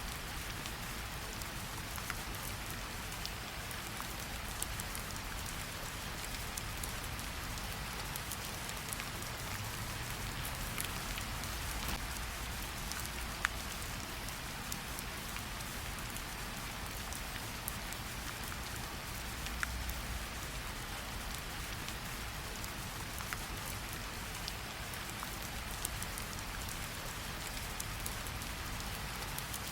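Steady rainfall, a continuous hiss with scattered sharp drop ticks, over a low rumble.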